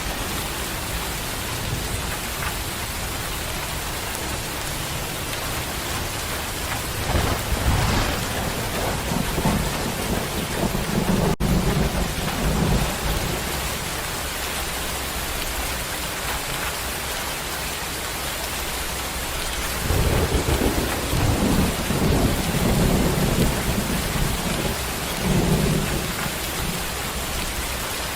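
Steady rain hissing, with two long rolls of thunder: one rumbling from about a quarter of the way in, the other from about two-thirds of the way in.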